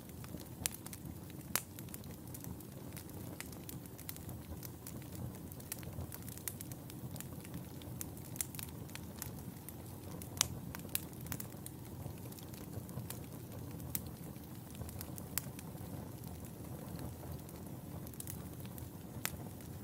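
Wood fire burning in a fireplace: a steady low rumble of the flames with sharp, irregular crackles and pops scattered throughout.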